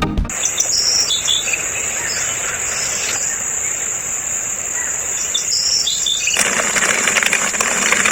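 Birds chirping over a steady, high insect drone, like crickets. About six seconds in, a louder hiss joins.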